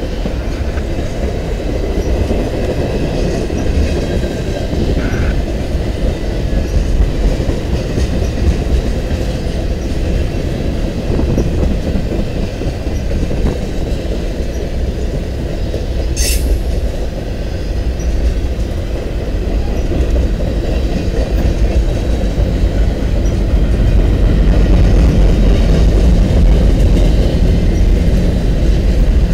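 Freight train tank cars and covered hoppers rolling past on the rails, a steady low rumble of wheels on track that grows a little louder near the end, with one brief sharp noise about halfway through.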